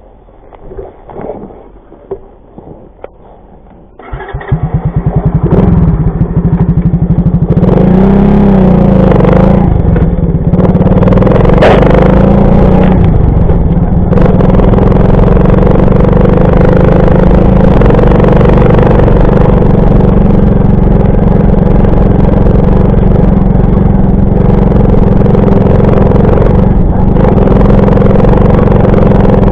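Alpha 110 moped's single-cylinder four-stroke engine starting about four seconds in after a few clicks, revving unevenly for a few seconds, then running steadily.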